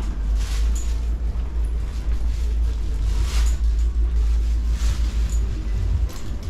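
City street ambience: a steady low traffic rumble with a few brief hissing swells, like vehicles passing.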